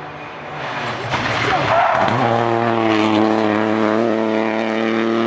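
Rally car engine under load, rising in pitch and growing louder over the first two seconds, then held at a steady pitch.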